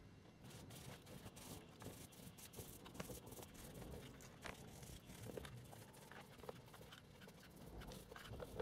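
Faint, irregular scraping and ticking of a tool spreading wet plaster over a shaper sheet on a model-railway hill.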